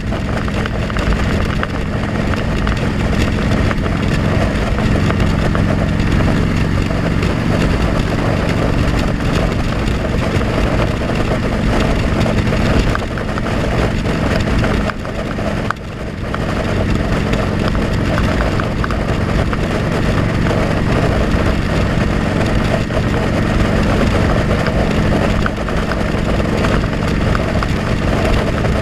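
Motorcycle riding, heard from a helmet-mounted camera: the engine running steadily under loud wind rush, with a brief drop in loudness about halfway through.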